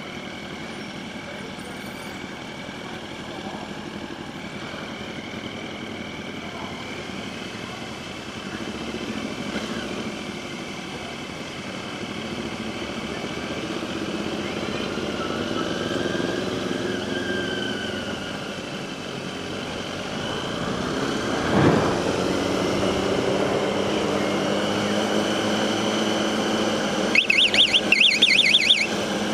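Motorcycle engines running while riding, their pitch rising and falling with the throttle and growing louder over the stretch. A sharp click comes about two-thirds of the way through, and a rapid pulsing rattle comes near the end.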